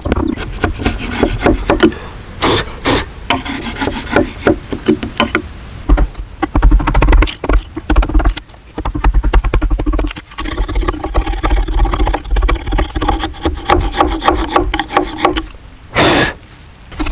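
Wood being scraped or rubbed by hand with a tool in quick, uneven strokes, with a few louder scrapes.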